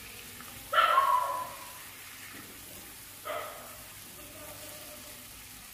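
Chicken pieces frying in oil in a non-stick pan while being stirred with a wooden spatula, with a steady low sizzle. Two brief, louder sounds with a clear pitch stand out, about a second in and again just past three seconds.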